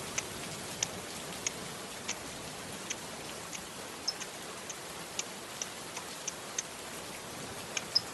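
Steady hiss of rain water falling, with short shrill chirps from a chocolate lovebird during its rain bath, one or two a second.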